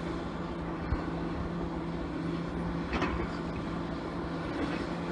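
Komatsu PC400LC excavator's diesel engine running steadily with a constant hum, with a sharp knock about a second in and a brief louder noise around three seconds in.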